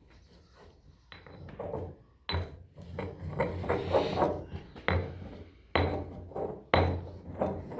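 A stock cube being crushed in a mortar with a wooden pestle: about four sharp pounding knocks, each followed by grinding and crunching.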